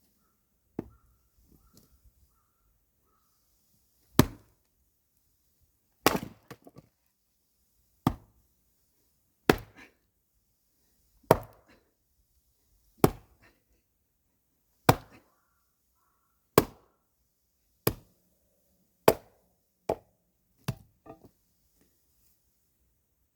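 Firewood being split with an axe: about a dozen sharp chopping strikes at a steady pace of one every one and a half to two seconds, several followed by a short clatter.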